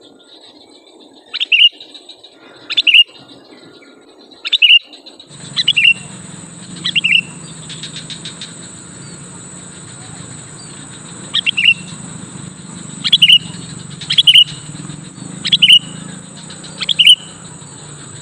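Sooty-headed bulbul (kutilang) giving short, sharp, loud calls, about ten of them, one every second or so. About five seconds in, a steady high whine and a low hum set in underneath.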